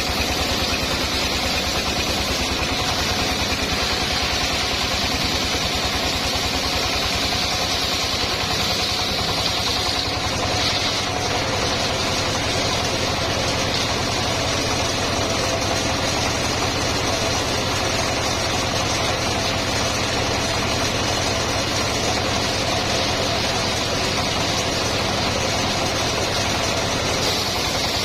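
Engine of a homemade circular sawmill running steadily with an even low firing beat, with a higher whine from the saw that is stronger for about the first ten seconds and then eases off.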